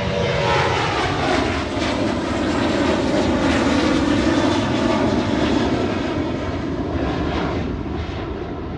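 Jet engines of a departing Boeing 737 airliner at takeoff power as it climbs away: a loud, steady rushing noise that slowly fades near the end.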